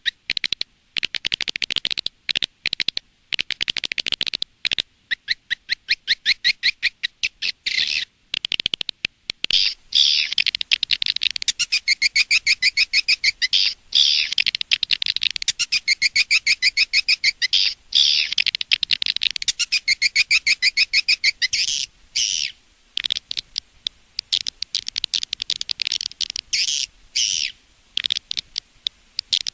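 Recorded swiftlet lure calls, the twittering of edible-nest swiftlets played to draw birds to a nesting house. High chirps come in fast trains, broken by short gaps for the first third, then run on in longer trilling sequences.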